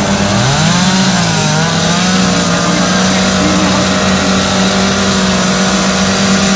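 Two-stroke chainsaw running at high revs; it revs up about half a second in, then holds a steady high pitch, with a second wavering engine or voice sound over it early on fading out.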